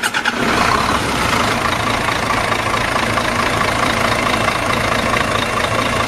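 A vehicle engine running steadily at idle: an even, unchanging engine noise.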